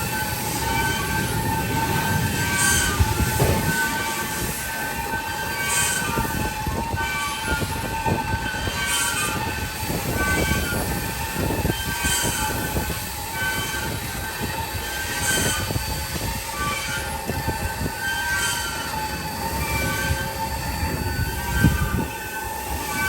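Car wash tunnel machinery running: a steady high whine over a low rumble, with a hissing burst about every three seconds.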